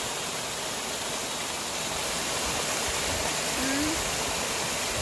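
Water from a park pond's water feature falling and splashing steadily into the pond, an even rushing hiss.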